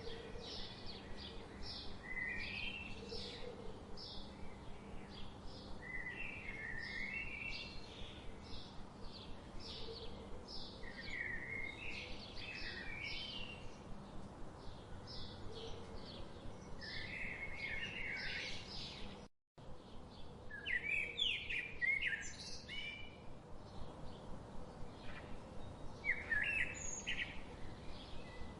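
Songbirds chirping and singing: a rapid run of short, high chirps several times a second, with warbling phrases mixed in. There is a brief total dropout about two-thirds of the way through, like a splice in a looped recording.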